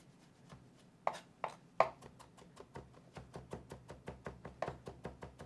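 A knife chopping julienned ginger strips into a fine dice, with rapid, even strikes about five a second that begin about a second in.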